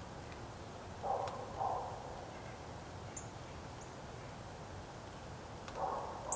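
A bird's harsh calls: two quick pairs of short rasping calls, one pair about a second in and another near the end, with a faint high chirp or two in between.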